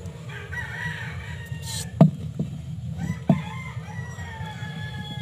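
A bird's long drawn-out calls in the background, the second one slowly falling in pitch near the end, with three sharp clicks about two to three seconds in.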